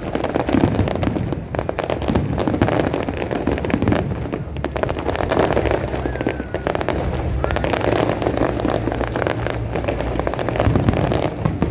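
A dense aerial fireworks barrage: rapid, unbroken crackling and popping mixed with deeper booms of shells bursting overhead.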